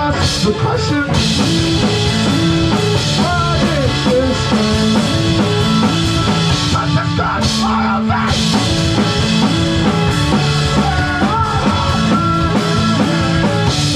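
A live rock band playing loudly and continuously, with drum kit and guitar.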